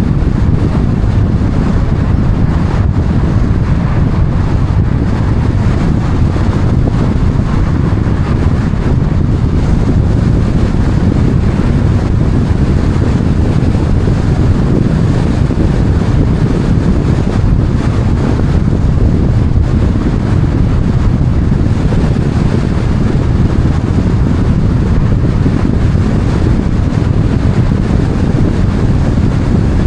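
Steady, loud wind rumble on the microphone, with no separate events standing out.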